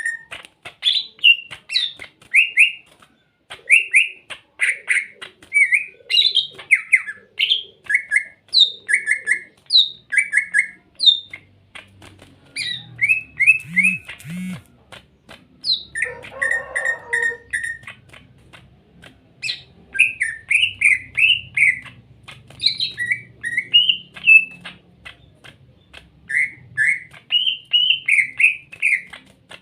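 Greater green leafbird (cucak ijo) singing: quick runs of short, clear whistled and chirping notes, many sliding up or down in pitch, with a harsh squawk about sixteen seconds in.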